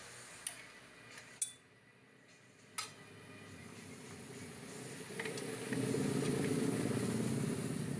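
A few sharp metallic clinks of tools or parts being handled, one ringing briefly. A steady low rumble then builds up and holds through the last couple of seconds.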